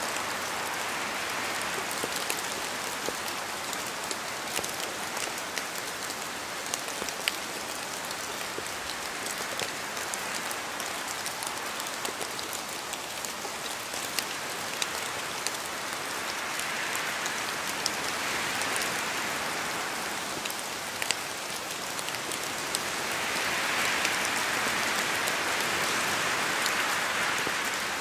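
Steady rain falling on a surface, with scattered sharp drop clicks; the rain swells heavier twice, the second time near the end.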